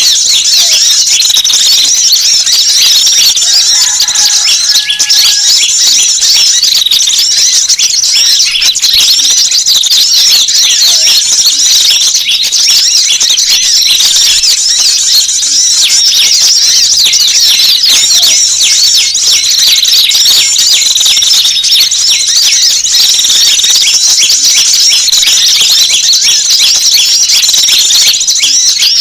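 A loud, dense chorus of high-pitched chirping and twittering from many small birds, a bird-lure recording that mixes several small species' calls to draw wild birds in.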